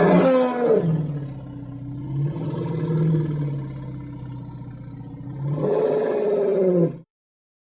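Creature roar sound effect: one long pitched call that starts high and drops within the first second to a low, drawn-out growl, then swells and rises in pitch again near the end before cutting off abruptly.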